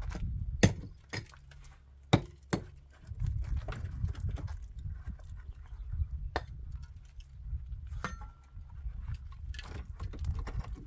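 A handful of sharp, irregular knocks and clicks over a low rumble, with a brief high tone about eight seconds in.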